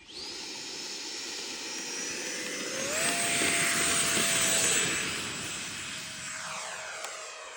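Electric ducted-fan motor of a radio-controlled model jet whining at a steady high pitch, then rising in pitch about three seconds in as the throttle comes up. It is loudest around four to five seconds, then fades off.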